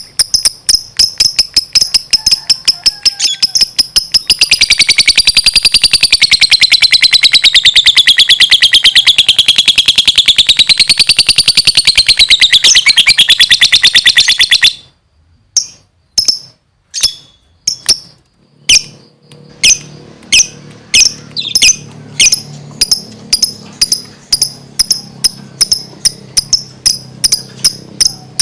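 Lovebird singing: quick repeated high chirps, then a long rapid trill of about ten seconds that wavers in pitch and cuts off suddenly. After a short gap, single chirps come back a few times a second.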